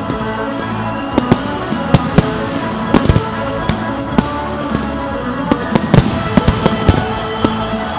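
Fireworks display: a series of sharp firework bangs, coming thickest about six seconds in, over steady music.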